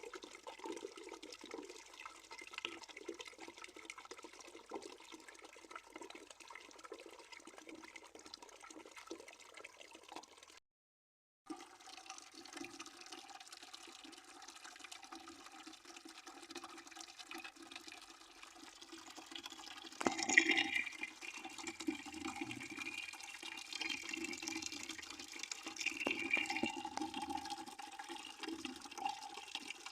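Water flowing steadily into a bucket, a continuous splashing with a ringing, pitched quality. The sound drops out completely for about a second around eleven seconds in, and grows suddenly louder about twenty seconds in.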